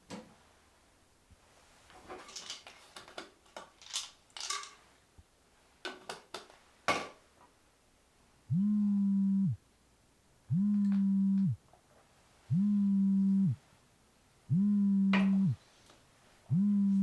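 A few clicks and handling rustles, then a mobile phone buzzing on vibrate in steady pulses about a second long and a second apart, five times.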